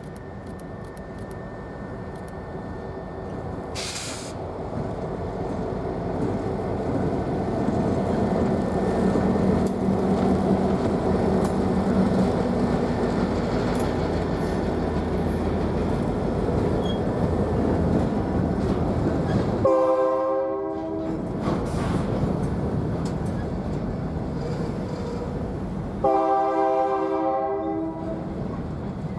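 BNSF freight train drawing near, its diesel locomotive growing louder over the first several seconds. The locomotive sounds its multi-note air horn twice, a shorter blast about 20 seconds in and a longer one about 26 seconds in.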